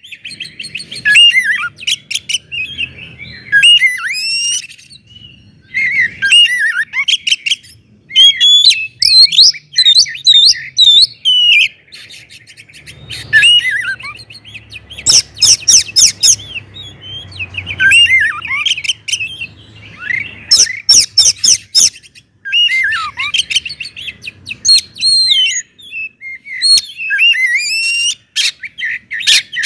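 Oriental magpie-robin (kacer) singing loudly in the full, open 'ngeplong' style: quick phrases of varied whistles, slurred notes and trills, with bursts of rapid harsh chattering notes, separated by short pauses.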